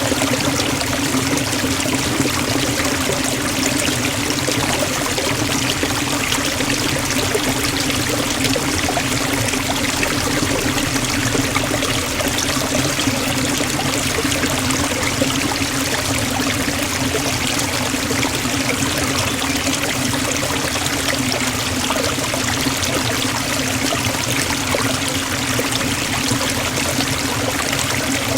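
Waterfall splashing into a forest pool, a steady, unbroken rush of falling water.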